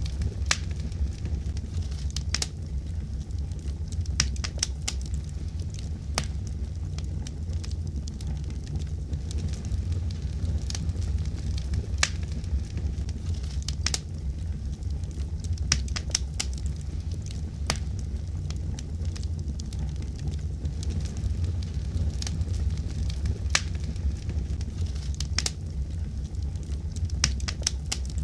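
Wood fire crackling in a fireplace: a steady low rumble of burning, with irregular sharp pops and snaps of the wood.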